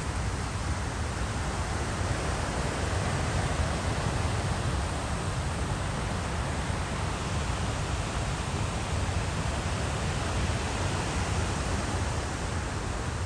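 Steady rushing of a flood-swollen creek, a continuous even wash of water noise with no let-up.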